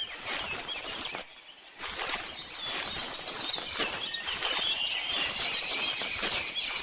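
Outdoor ambience: a crackling rustle with many small clicks, and birds chirping in the background. The sound briefly drops out a little over a second in.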